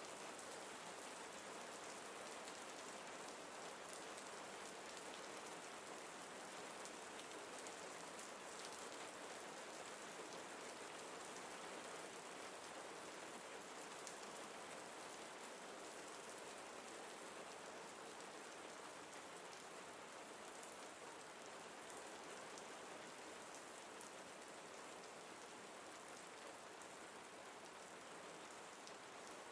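Faint, steady rain falling, an even patter of drops with no break.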